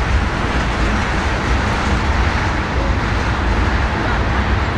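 Ethanol tank cars of a freight train rolling past: a steady rush of steel wheels on the rails with a low rumble.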